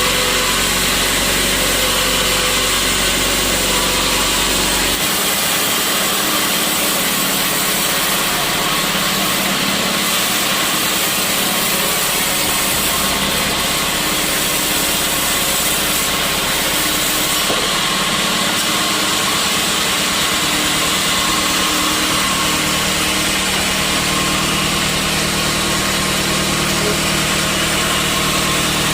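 Sawmill machinery running steadily while sawing teak stumps, a continuous mechanical drone; the lowest hum drops away about five seconds in.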